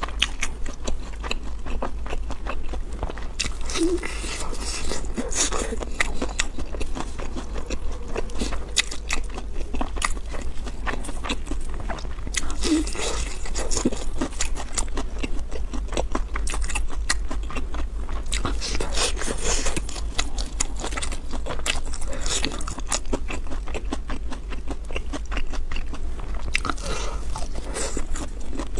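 Close-miked crunching and chewing of crispy fried food, many small crisp crunches in quick succession, over a steady low hum.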